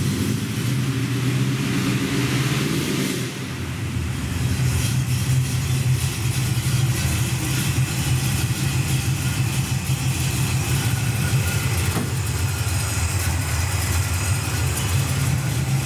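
Carbureted V8 engine of a 1967 Chevy Camaro, fed by a Holley four-barrel carburetor, running just after starting. Its level dips briefly about three seconds in, then it runs steadily.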